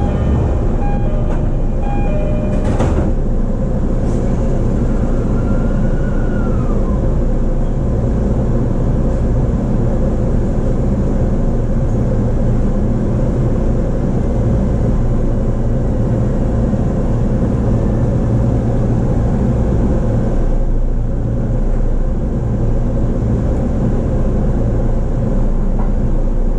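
Steady running noise of a JR East E233 series electric commuter train heard from inside the car: a continuous rumble of wheels on rails, with one sharp click about three seconds in.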